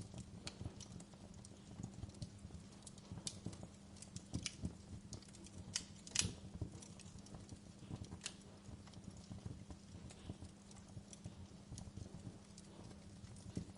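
Wood fire crackling in a fireplace: irregular sharp snaps and pops, the loudest about six seconds in, over a low steady hum.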